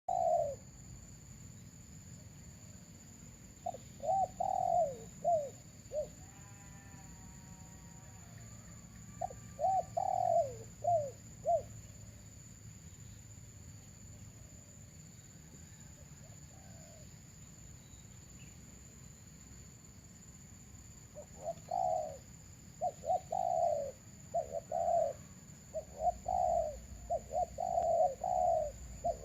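Doves cooing in short groups of quick falling notes: a few seconds in, again around ten seconds, and almost without pause over the last eight seconds. A steady high-pitched tone runs underneath.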